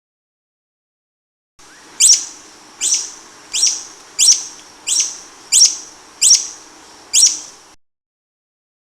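A bird calling eight times in an even series, each call a short, sharp note sweeping quickly down in pitch, over a faint outdoor hiss.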